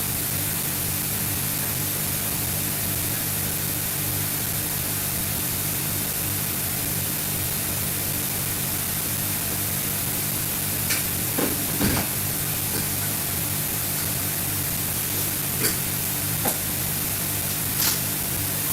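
Steady hiss at an even level, with a few short light clicks and knocks in the second half.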